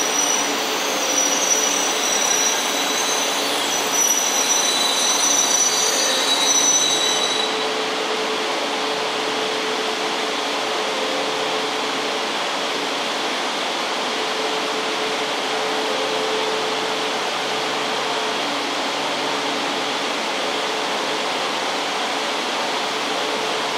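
E4 Series Max double-deck Shinkansen train pulling slowly into the station. High squealing comes from the train for the first several seconds, then stops. A steady rumble and hum continue as the train creeps to a halt.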